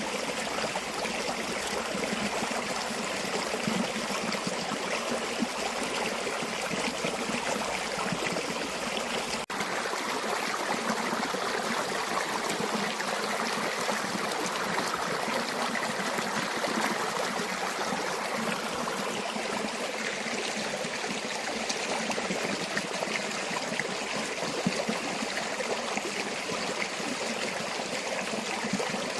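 River water flowing steadily, a continuous rushing and trickling. There is a momentary dropout about nine and a half seconds in.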